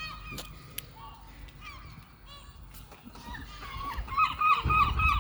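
Gulls calling: faint scattered calls at first, then about four seconds in a loud, rapid run of short arched calls, several a second. A low rumble comes in under them near the end.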